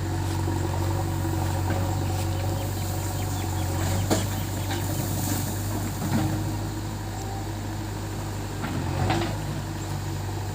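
Heavy diesel engine running steadily at an even low speed, with a few short knocks or clanks about 4, 6 and 9 seconds in.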